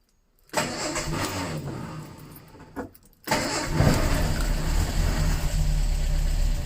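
Ford Anglia's four-cylinder petrol engine starting on hand-primed fuel, with no choke and no fuel line connected. It fires about half a second in and runs briefly, drops out for a moment, then catches again and runs steadily and louder until near the end. It is running only on the priming fuel.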